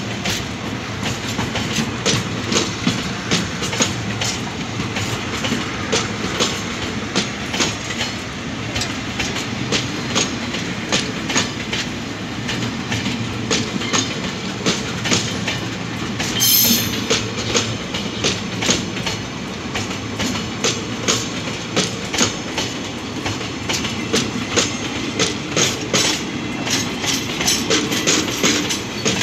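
Freight train wagons rolling past, steel wheels clicking rapidly and unevenly over rail joints over a steady rumble, with a brief high hiss or squeal about halfway through.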